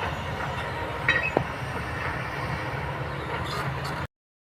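Kobelco hydraulic excavator running with a steady low rumble, with two sharp metallic clanks a little over a second in. The sound cuts off abruptly near the end.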